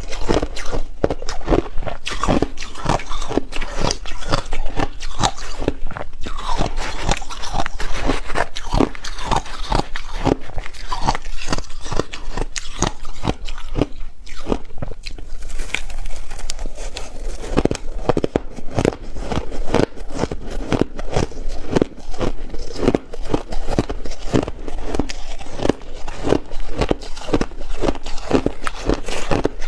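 A person biting and chewing ice: a steady run of crisp crunches, several a second, with a short lull about halfway through.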